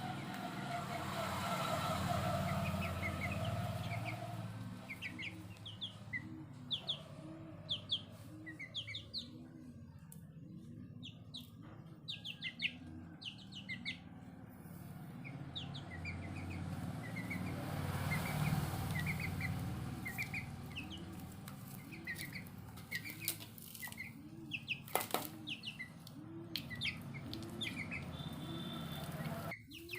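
Aseel mother hen clucking softly at a steady pace, about one and a half low clucks a second, while her chicks peep with short, high chirps. One sharp knock sounds late on.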